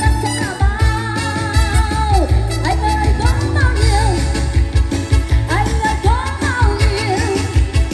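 A woman singing a Vietnamese pop song over a full band backing with a steady bass beat.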